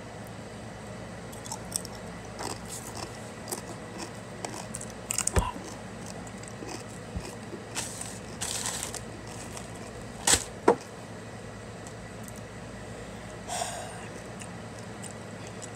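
Close-up crunching and chewing of a crunchy snack chip, with scattered crisp crackles. The loudest crunches come about five seconds in and twice around ten seconds in, over a steady low hum.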